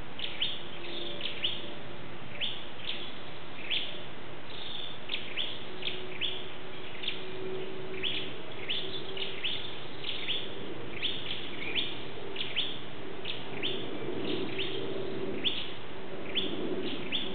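A bird calling with short, sharply falling chirps, repeated irregularly about twice a second.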